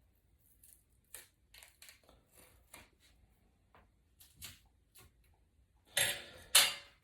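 Small clicks and taps of iPad repair parts and tools being handled on a workbench, then two louder rustling scrapes near the end.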